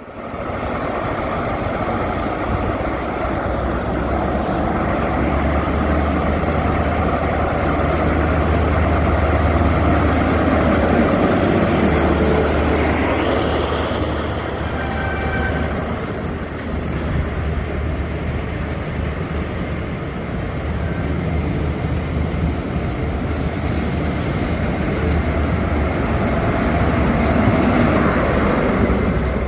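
Class 43 HST power cars' diesel engines working hard as the train pulls away, a loud, steady low drone that swells and eases, with train wheel and carriage noise over it.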